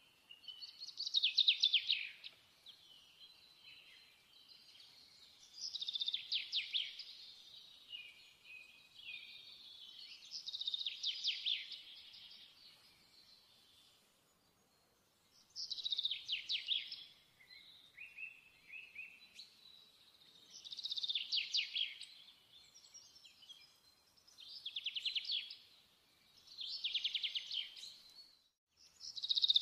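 A songbird singing short phrases of rapid high chirps, one phrase about every four to five seconds.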